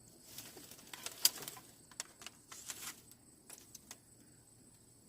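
Irregular light clicks and knocks, about a dozen scattered over three to four seconds, the sharpest about a second in, then quieter.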